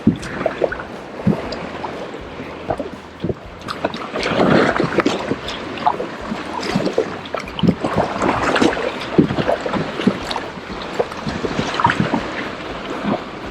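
Kayak paddle dipping and splashing in sea water, with irregular splashes, drips and small knocks as the strokes are taken.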